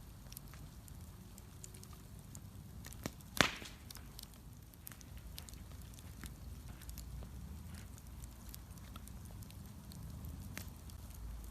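Bonfire crackling, with scattered small snaps and one loud sharp pop from the burning wood about three and a half seconds in, over a low steady rumble.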